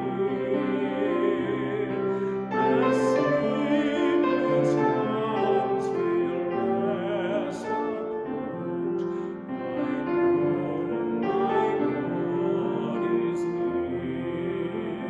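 Church music: a voice singing with vibrato over piano accompaniment, sustained and continuous.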